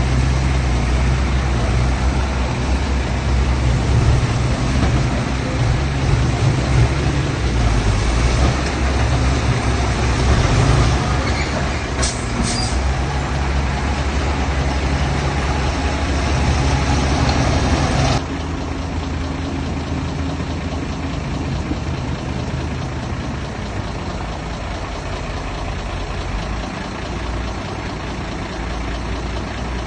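Heavy diesel engine of a truck or earthmover running loud and steady, with two brief high squeaks about twelve seconds in. About eighteen seconds in the sound drops abruptly to a quieter, steadier engine running.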